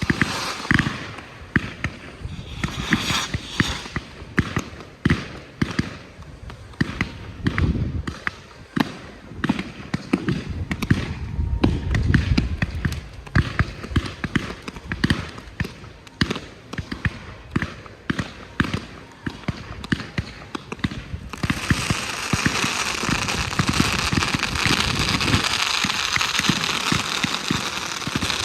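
Low-noise display fireworks firing in quick succession: a rapid run of soft thuds and pops, two or three a second. About three-quarters of the way through they give way to a dense, continuous crackle.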